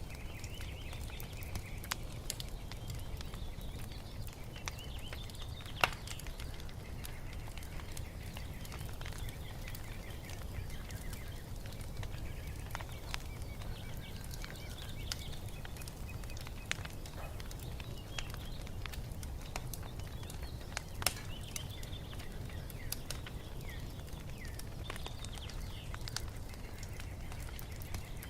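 Wood fire crackling with frequent small pops, two louder snaps about six and twenty-one seconds in, over a low steady rumble, while small birds chirp and twitter throughout.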